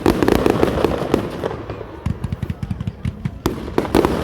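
Fireworks display finale: a dense, rapid crackling and popping from many shells bursting, with loud bangs right at the start and about three and a half seconds in.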